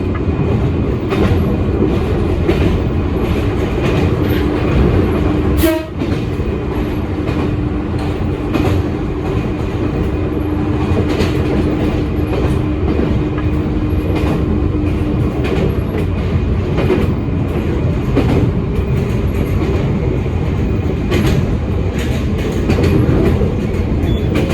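Toyama Chiho Railway electric train running along the line, heard from the front of the car: a steady rumble of wheels and motors with the clack of rail joints. A steady humming tone holds for about ten seconds, starting about six seconds in.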